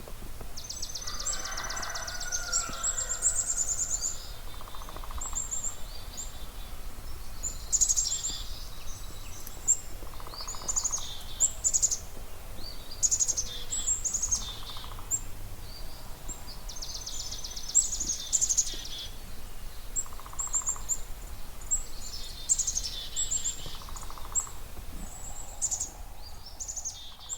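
Spring dawn chorus of several songbirds singing over one another: high chirps, trills and warbled phrases, with a short lower note repeating about every five seconds.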